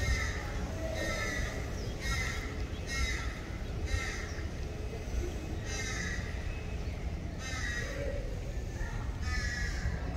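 A bird calls over and over, short calls roughly once a second, over a steady low rumble.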